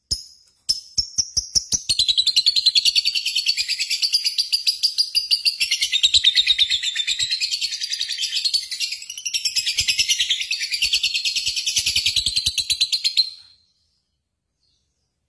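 A bird chirping in a fast, even trill of high notes, which stops abruptly near the end.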